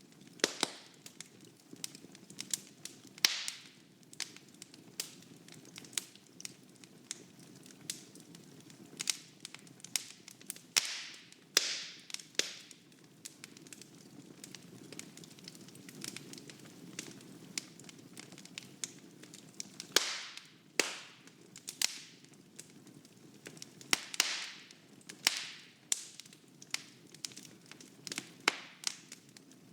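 Wood fire burning in a fireplace: a low steady rumble of flame under irregular sharp crackles and pops, several of them loud.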